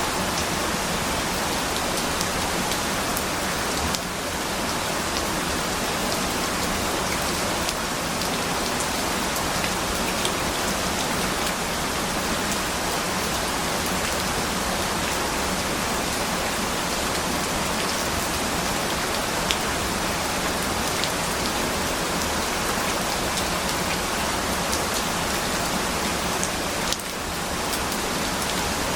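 Steady rain: an even hiss with scattered faint drop ticks, dipping briefly in loudness about four seconds in and again near the end.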